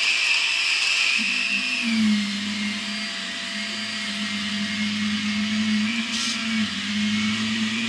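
Shark Rocket Professional vacuum cleaner running, its motor giving a steady high whine that drops a little in pitch about two seconds in as a lower hum comes up; a brief hiss of sucked air near the end.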